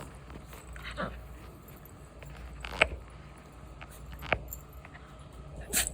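Puppy making a few short growls and yips in play, with brief scuffling knocks between them.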